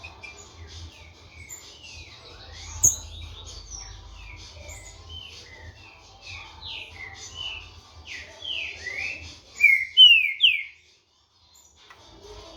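Green-winged saltator (trinca-ferro) singing short, loud whistled phrases among other birds' chirps, the loudest phrases about two-thirds of the way in. A sharp click about three seconds in, and the sound cuts out for about a second near the end.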